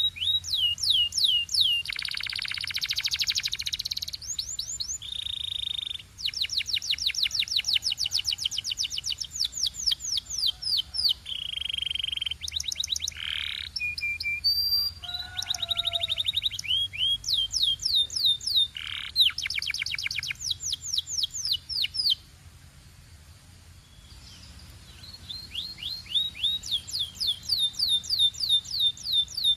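Canary singing: fast trilled runs of repeated, sweeping high notes, each run lasting a few seconds, with a short pause about three-quarters of the way through.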